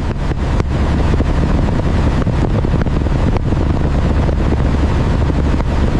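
Loud, steady rush of turbulent ocean water with a deep low rumble and wind buffeting the microphone.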